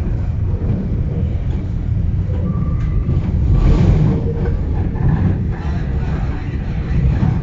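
New York City subway N train running along the track, a loud steady low rumble of wheels on rail. A few brief whining tones and a swell of noise about halfway through ride over the rumble.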